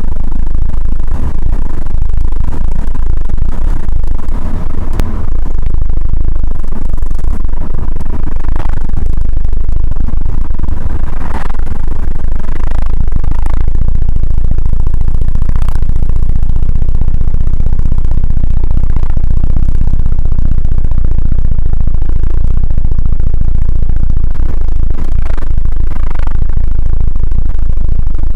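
Wind buffeting inside a 2014 Astra Sports Tourer's cabin at over 40 mph with one window down: a loud, deep, steady boom of air pressure over road noise, caused by wind pressure through the single open window.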